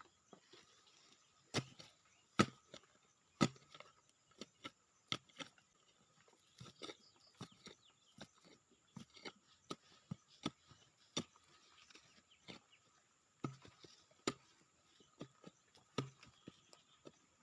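A hand tool striking again and again into soil and roots, digging out a serut shrub for bonsai stock. The blows are irregular: mostly lighter strikes, with a few much harder ones near the start and again near the end.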